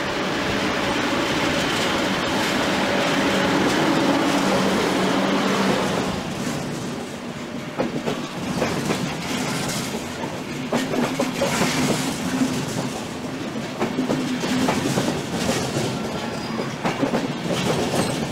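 DB Class 120 electric locomotive passing with its train, a steady hum that grows to its loudest about five seconds in and then falls away. Passenger coaches follow, their wheels clicking irregularly over the rail joints.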